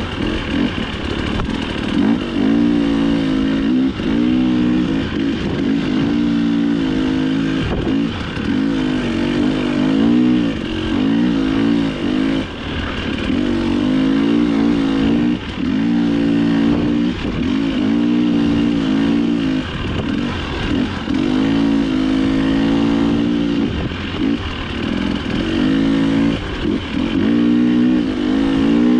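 Dirt bike engine revving up and down with the throttle under race riding, its pitch rising and falling every second or two with short drops between.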